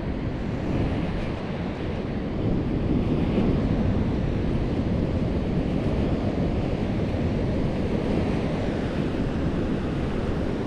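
Surf at a beach break: a steady rush of breaking and washing waves, with wind buffeting the microphone. It grows a little louder about two and a half seconds in.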